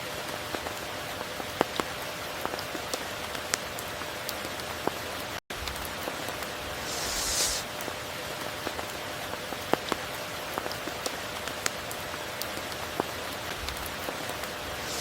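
Steady heavy rain hissing down, with individual drops ticking sharply on nearby surfaces. A brief higher hiss swells about seven seconds in, and the sound cuts out for an instant about five and a half seconds in.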